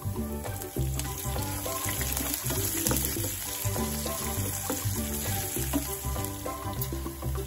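Green chillies and spices sizzling in hot oil in a non-stick pan, stirred with a wooden spatula, under upbeat background music with a steady beat.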